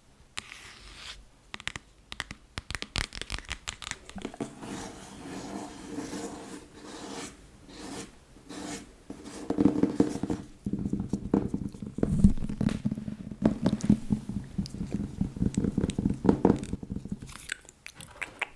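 Fast tapping and scratching on a book, a dense run of quick taps and scrapes that grows busier and louder about halfway through.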